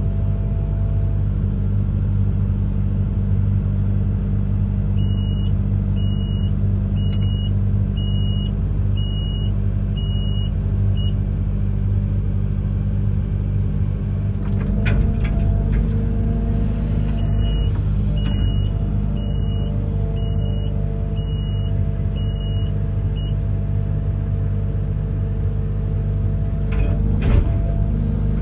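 Amphibious excavator's diesel engine running steadily under load. Its warning alarm beeps at an even pace in two runs, about a fifth of the way in and again past the middle. The engine note shifts about halfway through, and there are a couple of short knocks.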